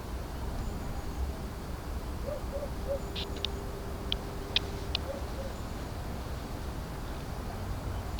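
Steady low outdoor rumble with a few short, high bird chirps in the middle.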